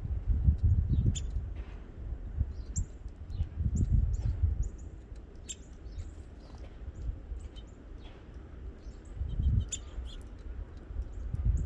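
Birds chirping at a feeder: many short, high chirps scattered throughout. A low rumble swells and fades, loudest near the start, around the middle and near the end.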